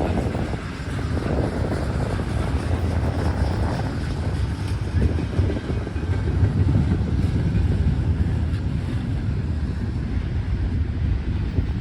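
Wind buffeting the microphone over the low rumble of a moving Norfolk Southern freight train.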